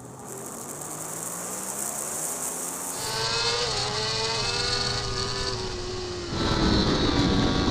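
Racing superbike engines heard from onboard cameras at speed, with wind rush over the microphone. The sound changes abruptly twice, about three and about six seconds in: first a slowly rising engine note, then a slowly falling one, then a louder engine.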